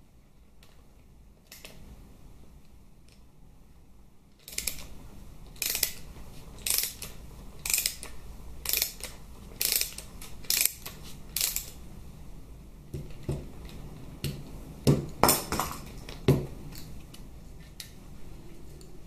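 Hand tools working the Allen head screws of a Harley-Davidson Twin Cam transmission oil pan: a run of sharp metallic clicks about once a second, then a few louder metal knocks.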